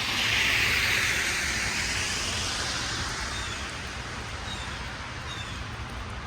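A car passes on a snow-covered street, its tyres hissing, loudest about a second in and then fading away. Underneath runs a steady low city rumble.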